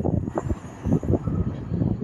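Wind buffeting the microphone in uneven gusts over the low rumble of a passing train.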